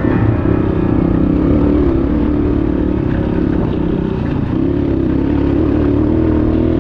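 Dirt bike engine running steadily under way, its pitch wavering slightly with the throttle.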